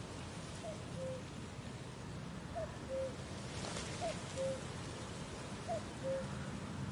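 A bird's low two-note call, a short rising note followed by a steady lower one, repeated four times about every one and a half seconds over a soft background hiss.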